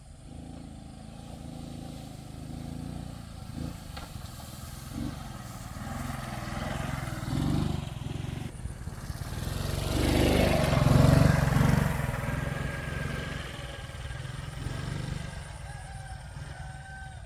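A motor vehicle's engine running, growing louder to a peak about ten to twelve seconds in and then easing off.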